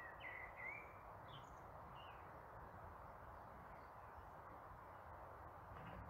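Near silence: faint steady outdoor background noise, with a few short bird chirps in the first two seconds.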